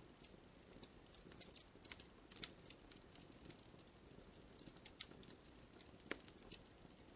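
Faint campfire crackling: sparse, irregular pops and snaps of burning wood, the sharpest about two and a half seconds in.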